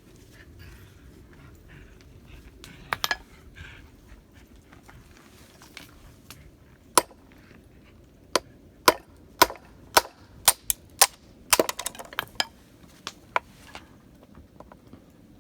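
Sharp cracking knocks of a blade chopping into bamboo: a pair about three seconds in, then a run of about a dozen strokes at roughly two a second in the second half.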